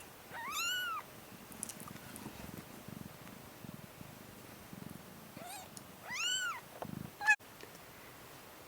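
Newborn kitten mewing twice, high thin cries that rise and fall, about five seconds apart, over a cat's low purring. A single sharp click comes near the end.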